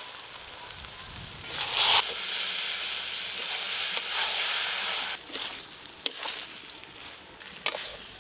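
Rice, ghee and spice paste sizzling in a hot karai while a metal spatula stirs and scrapes through it. The sizzle swells sharply about two seconds in, then eases, and the spatula knocks against the pan a few times in the second half.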